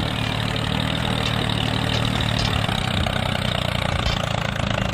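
Tractor engine running steadily with a low, even note that does not change speed.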